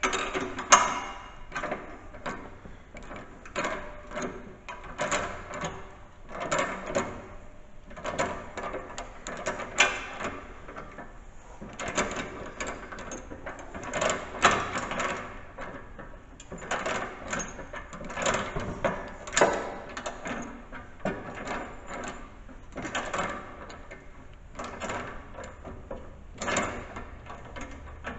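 Hand tools and metal hardware clinking and clicking in an irregular run, as bolts and washers are fitted and tightened on a snow plow mount.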